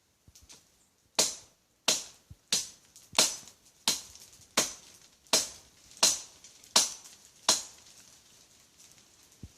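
Cutlass (machete) chopping into a tree trunk: about ten sharp, evenly paced blows, a little under one a second and a half apart, that stop near the end.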